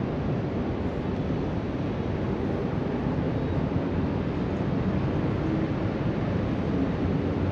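Surf breaking along a beach, heard from high above the shore, with wind across the microphone: a steady, even wash of noise with no distinct events.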